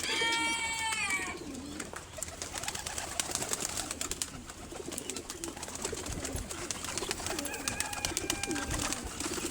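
Domestic pigeons cooing over and over in low, rolling calls. A higher, drawn-out call sounds at the start and again near the end.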